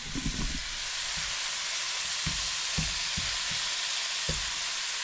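Breakfast sausage patties frying in a pan, a steady sizzling hiss, with a few light knocks.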